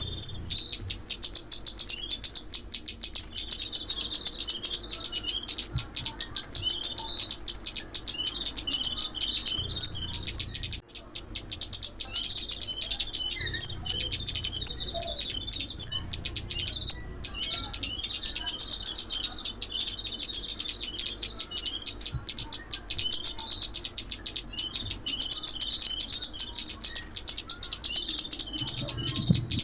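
Recorded calls of the small bird known in Vietnam as chim ốc mít, played as a trapping lure: rapid high-pitched chirps in repeated phrases of a second or two, with short breaks between them and a thin steady high tone underneath.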